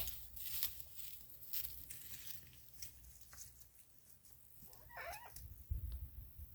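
A goat bleats once, briefly, about five seconds in; the call wavers in pitch.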